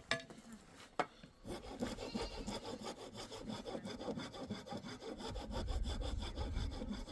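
Two sharp knocks, then a saw cutting through wood with quick, steady strokes from about a second and a half in.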